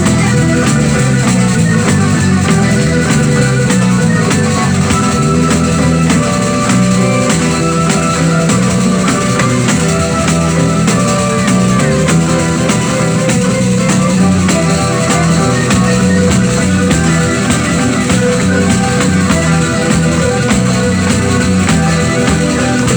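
Live pizzica, the Salentine folk dance music, played by a band with continuous percussion strokes and plucked strings over sustained melodic lines.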